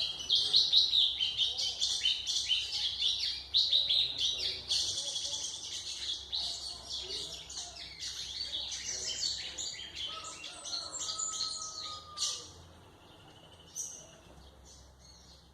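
White-throated seedeater (golinha) singing a long, fast song of high twittering chirps, which stops about twelve seconds in; one brief note follows shortly before the end.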